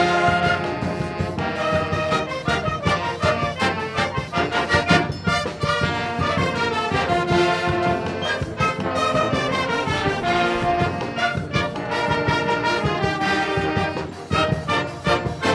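Brass and wind band (filarmônica) playing a lively forró arrangement, brass carrying the melody over a steady, quick percussion beat.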